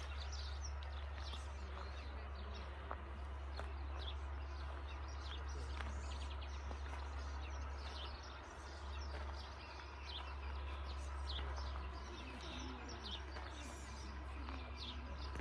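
Small birds chirping: many short, quick calls, over a steady low rumble.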